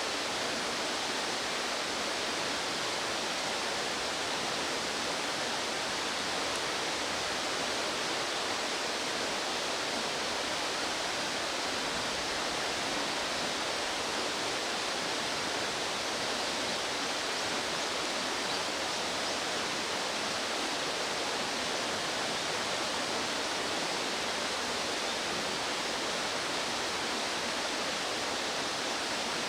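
Fast-flowing mountain stream: a steady, even rush of water with no change throughout.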